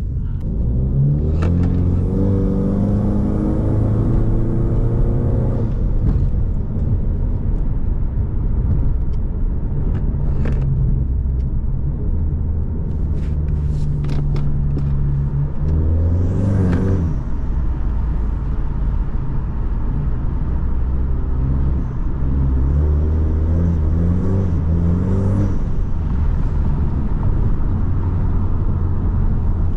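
Car engine and exhaust heard from inside the car while driving: a steady low rumble with several pulls where the engine pitch climbs, at the start, about 16 seconds in, and again in steps around 23 to 26 seconds.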